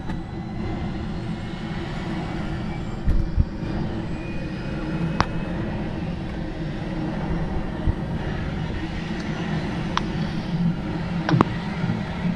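Airbus H125 helicopter running steadily, its single turboshaft engine and rotor giving an even hum. A couple of low thumps about three seconds in and a few sharp clicks later on.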